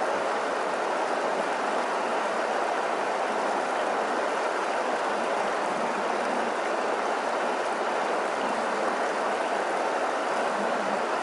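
River water rushing, a steady, even noise that doesn't change.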